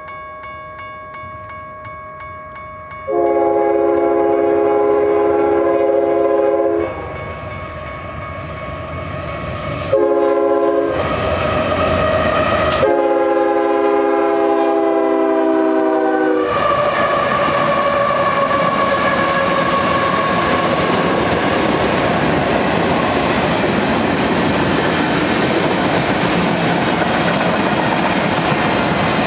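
Grade-crossing warning bells ringing. Then the air horn of Union Pacific 5512, a GE C45ACCTE diesel locomotive, sounds several blasts for the crossing, the last held for several seconds. After the horn stops, the locomotives and manifest freight cars roll past with a steady rumble and wheel clatter.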